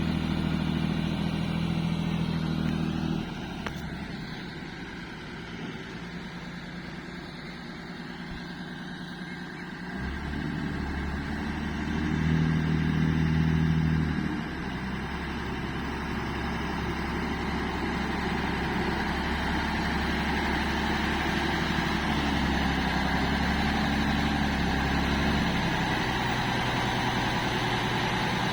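A vehicle engine running. It drops away about three seconds in, picks up again around ten seconds, is louder for a couple of seconds soon after, then runs steadily.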